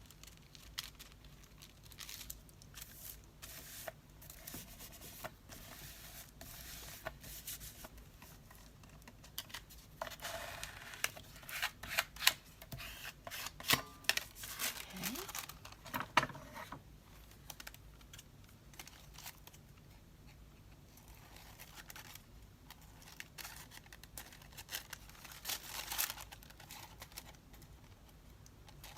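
Hands handling paper: rustling and rubbing in scattered bursts with small clicks, busiest around the middle.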